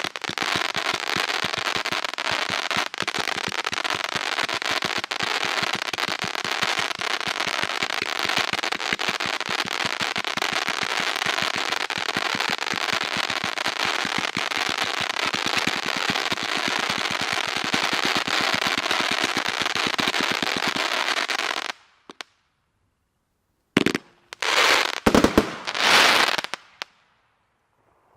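Red Rhino 'Fire Over Water' 500 gram firework cake firing: a loud, dense, unbroken barrage of rapid crackling pops that cuts off suddenly about three-quarters of the way through. After a short silence come three brief final bursts.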